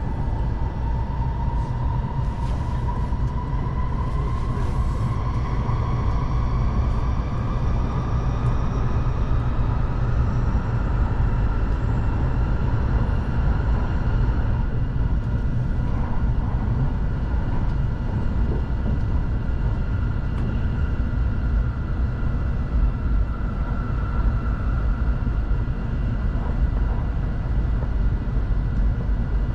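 Kamome Shinkansen (N700S) running at speed, heard inside the passenger cabin: a steady rumble of running noise with the traction motors' whine on top. The whine rises in pitch over roughly the first ten seconds, then holds steady.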